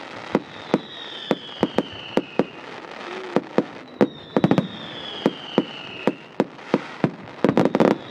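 Fireworks going off: a string of sharp bangs about every half second, with two long whistles that fall in pitch, and a quick volley of bangs near the end.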